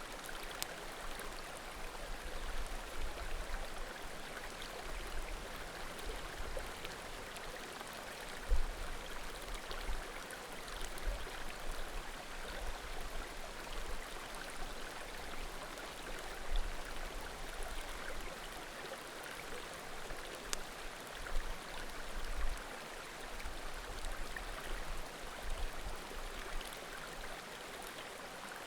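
A small mountain creek babbling steadily, with faint scattered pops of burning firewood and occasional low bumps.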